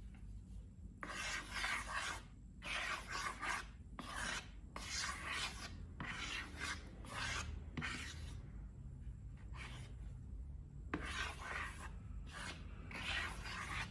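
A series of dry, scratchy rubbing strokes, each lasting up to about a second with short gaps between them, with a lull of a few seconds in the middle.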